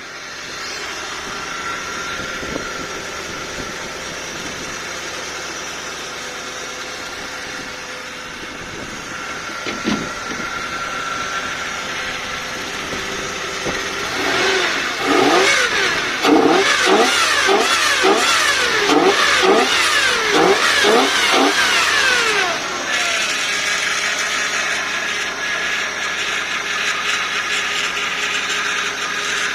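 1992 Lexus LS400's 1UZ-FE V8 running with a steady high squeal from the power steering pump. About halfway through, the engine is revved up and down quickly eight or nine times, then it drops back to a steady idle.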